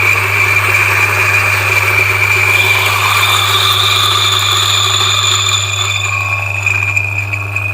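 DF64 electric coffee grinder with SSP Multipurpose burrs grinding about 10 grams of coffee beans. It is loud and steady: a constant motor hum and a high whine under a gritty grinding noise, which thins slightly about six seconds in.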